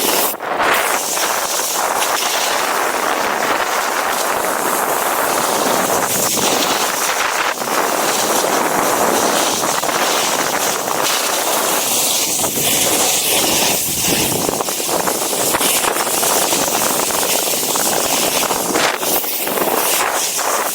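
Strong wind rushing over the microphone: a loud, steady hiss that flutters slightly.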